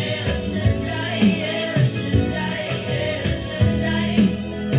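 Genge tone music from a live band, with singing over a steady beat of about two strong bass hits a second.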